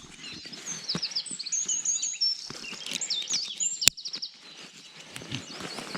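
Small songbirds chirping and singing in quick repeated high notes, fading out in the second half, over scattered rustles and faint knocks, with one sharp click about two-thirds of the way through.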